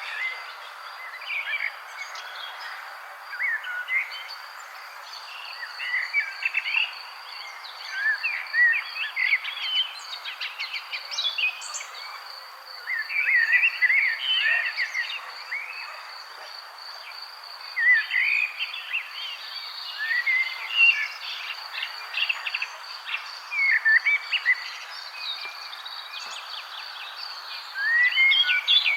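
Several small birds chirping and twittering in short, scattered bursts over a steady, pulsing insect trill.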